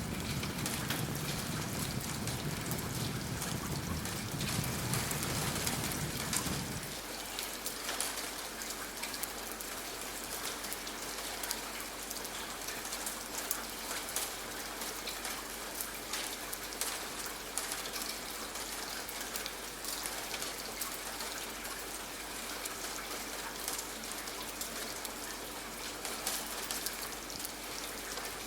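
Steady rain on a surface, with scattered sharp crackles from a wood fire in a fireplace. A low rumble underneath cuts off abruptly about seven seconds in.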